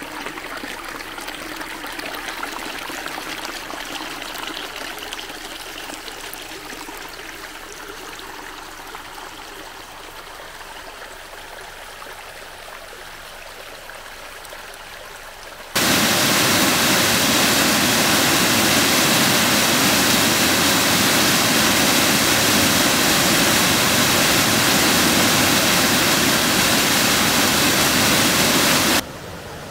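Rushing water: a steady hiss that jumps suddenly to a much louder, closer rush about halfway through and cuts back down just before the end.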